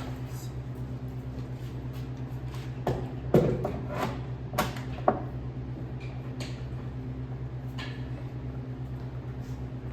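A steady low machine hum with a rapid, even pulse, and a few sharp knocks and clatters near the middle.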